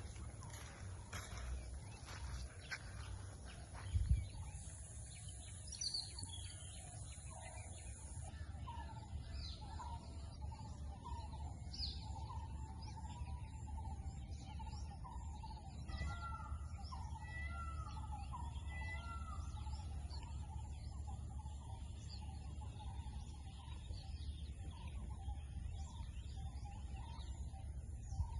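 Several wild birds chirping and calling, with a run of short, repeated, downward-sweeping call notes in the middle, over a steady low rumble. A single dull thump about four seconds in is the loudest sound.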